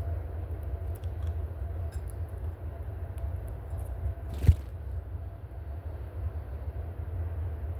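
Steady low rumble with one sharp knock a little past halfway.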